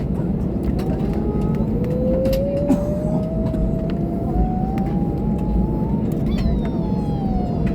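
Jet airliner engines heard from inside the cabin on the ground: a steady rumble, with an engine whine that rises slowly in pitch for a few seconds and then falls away near the end. A few faint clicks sound in the cabin.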